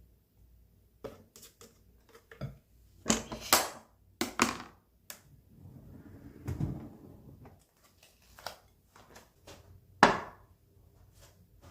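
Household handling sounds in a small room: scattered knocks and clicks, a soft rustle a little past the middle, and one louder knock near the end.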